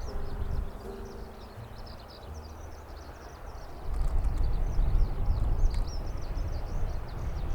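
Small birds chirping busily with wind buffeting the microphone in a low rumble that gusts much stronger about four seconds in. Faint steady musical tones fade out in the first two seconds.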